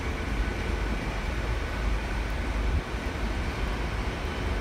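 A TransPennine Express train running in the station: a steady low rumble with a faint, even whine above it.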